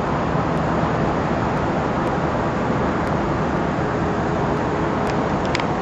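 Offshore powerboat engines running, a steady dense rush with a few faint ticks near the end.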